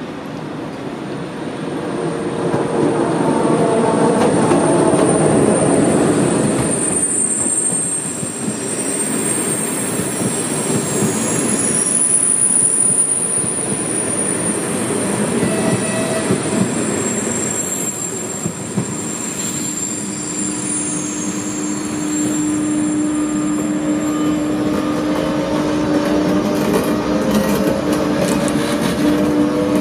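A passenger train runs close by through the station tracks, its wheels squealing in several high gliding tones and clacking over the rails. From the second half, a steady hum and a rising whine come from the passing ČD electric locomotive, a class 163.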